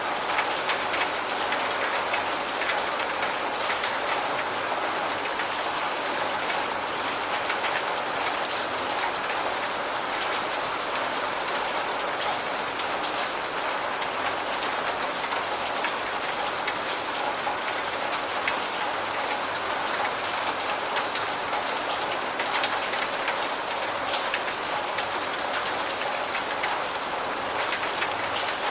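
Steady heavy rain falling, a dense, even patter of many drops hitting a surface.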